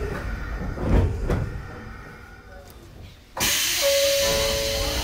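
Sotetsu New 7000 series train sounds at a station: a few knocks in the first second and a half, then the sound dies down. About three and a half seconds in, a sudden loud hiss starts, and steady tones join it.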